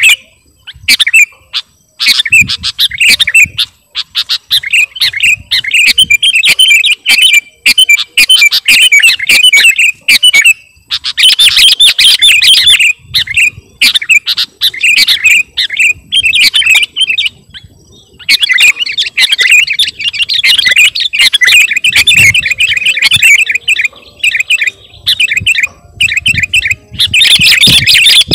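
Sooty-headed bulbul (kutilang) singing loudly in fast runs of chirping notes, with a few short pauses between runs.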